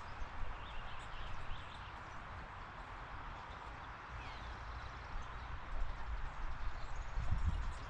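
Outdoor backyard ambience: a steady hiss with a few faint, short bird chirps, and some low thumps on the microphone near the end.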